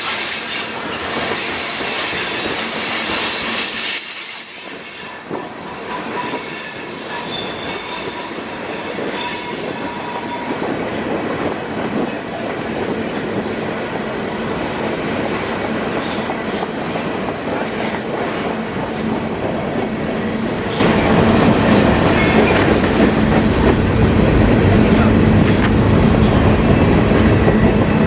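CSX mixed manifest freight train rolling past, its cars' wheels squealing on the rails in the first part. About two-thirds of the way through it turns suddenly louder and deeper, with a steady hum.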